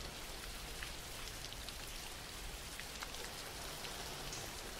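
A quiet background recording of steady rain falling, an even hiss with a few single drop ticks standing out here and there.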